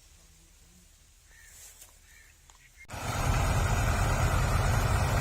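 Quiet at first with a couple of faint short calls, then about three seconds in a tractor's diesel engine starts up loud and steady, with a heavy low rumble.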